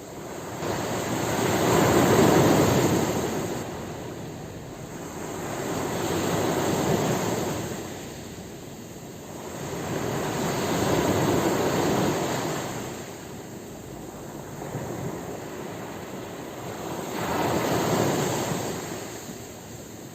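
Ocean waves breaking and washing on a shore, four slow surges that swell and fade about every four to five seconds.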